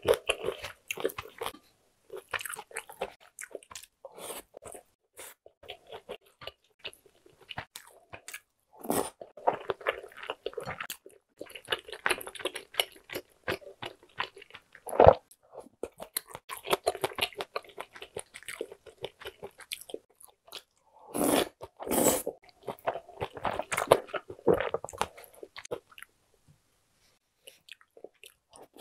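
Close-miked eating of spicy tteokbokki rice cakes, glass noodles and a rice burger: chewing and biting in irregular bursts, with a few sharp clicks, the loudest about halfway through and again a few seconds later.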